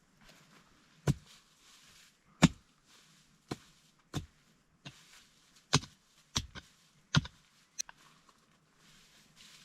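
A tool striking wood about nine times, in sharp separate blows a little under a second apart, as in chopping or hammering timber for a shelter frame.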